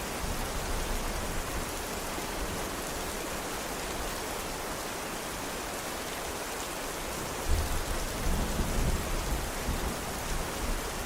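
Steady rain falling on surfaces, an even hiss. About two-thirds of the way through, a low rumble of thunder swells up for a couple of seconds.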